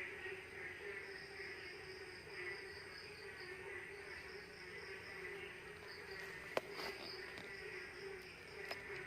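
Night insect chorus: several steady, shrill, slightly pulsing trills of crickets and other insects going on together. A couple of faint sharp clicks come about two-thirds of the way through.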